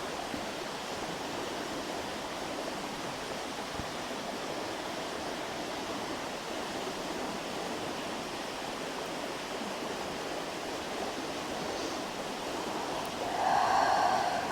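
Steady rushing of a flowing river, with a brief louder, pitched sound near the end.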